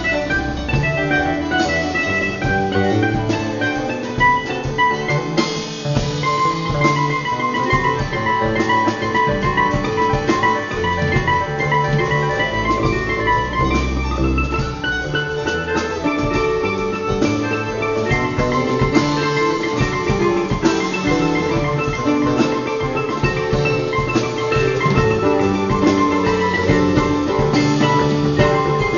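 Live band playing an instrumental passage of a song: a melodic lead of short notes over bass and drums, with no singing.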